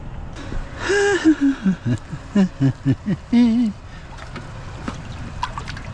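A person's voice: about three seconds of unclear, pitched vocal sounds, like mumbled speech or humming, over steady background noise.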